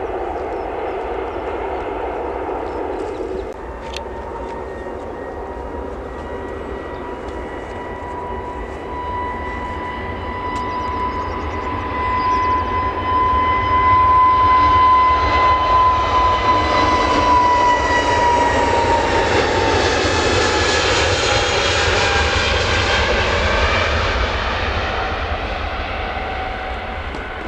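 Aircraft passing close by: a steady engine whine that grows louder, then falls in pitch as the plane goes past, with a broad rushing noise at its loudest. It cuts off abruptly at the end.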